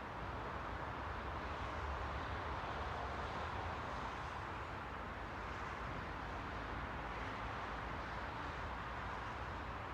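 Steady, even rushing noise with a low rumble underneath and no distinct events.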